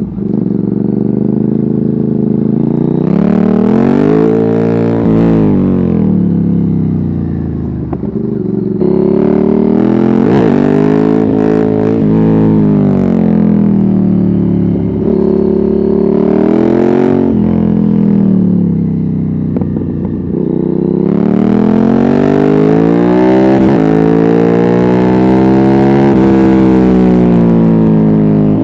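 Ducati Hypermotard 796's air-cooled L-twin through a de-catted Termignoni exhaust with no dB killer, ridden hard. The revs climb and drop back again several times as the bike accelerates and slows, with a long, sustained climb in the last third.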